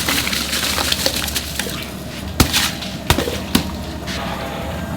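Soaked rice being tipped into boiling water in a large metal cooking pot: a pouring, splashing rush for about the first two seconds, then three sharp knocks of metal against the pot.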